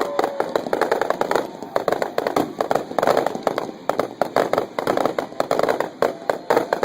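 Fireworks crackling: a dense, unbroken run of rapid sharp pops.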